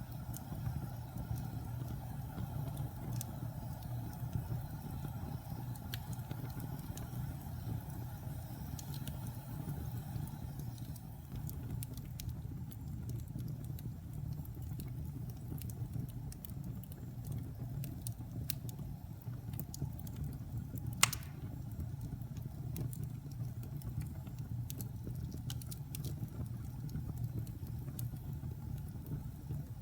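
Wood fire burning in a fireplace: a steady low rumble with scattered small crackles and one sharp, loud pop about two-thirds of the way through.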